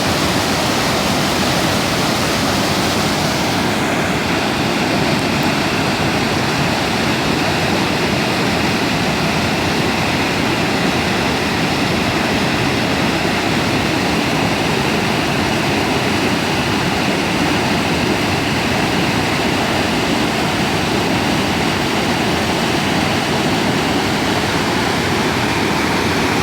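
A river in heavy flood pouring over a weir: a loud, unbroken rush of fast water. The highest part of the hiss softens slightly about four seconds in.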